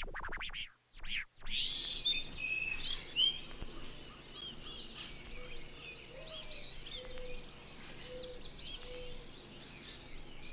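Birds chirping in quick, rapid phrases over a steady high-pitched tone, after a short scratchy stutter in the first second and a half.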